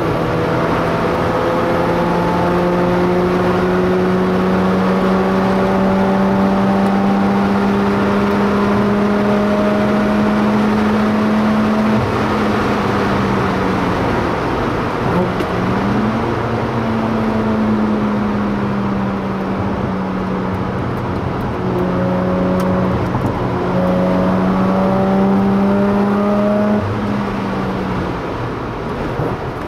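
Mazda RX-8's two-rotor Wankel rotary engine with a Japspeed exhaust, heard from inside the cabin, running at high revs on track. Its pitch climbs slowly through long pulls, falls away and dips about twelve to fifteen seconds in, climbs and holds high again, then eases off near the end.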